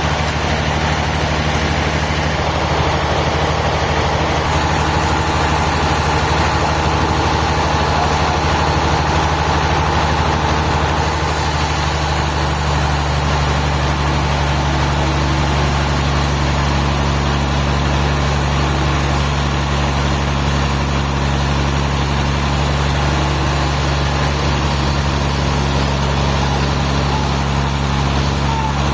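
A heavy engine idling steadily, a low even hum that does not change speed.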